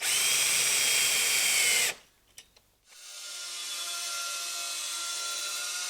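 Cordless drill driver driving a SPAX screw through an aluminium stair nosing into the step, running hard for about two seconds and then stopping suddenly, followed by a few light clicks. Soft background music fades in about three seconds in.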